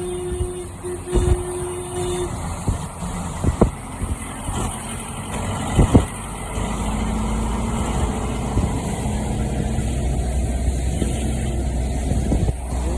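Road vehicle engines running. A steady horn-like note sounds twice in the first two seconds, there are several knocks over the next few seconds, and about halfway through a steady low engine drone sets in and continues.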